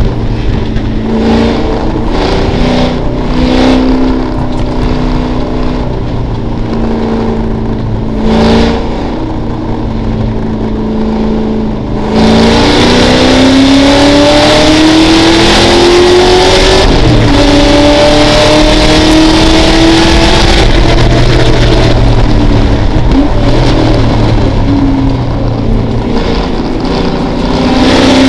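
Mustang race car's engine heard from inside the cockpit. It runs at steady, moderate revs at first; about twelve seconds in it suddenly gets much louder under full throttle, its pitch climbing steadily, with an upshift dropping the revs about five seconds later and another near the end. Wind and road noise rise with the speed.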